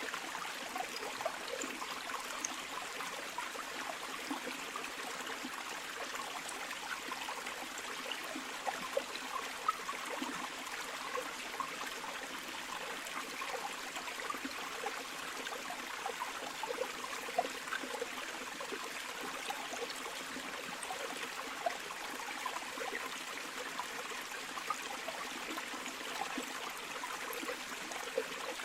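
Flowing river water: a steady, even rush with many small gurgles and splashes.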